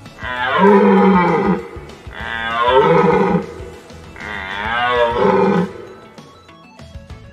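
Deer bellowing: three long, deep calls, each sliding down in pitch, about a second apart, over soft background music.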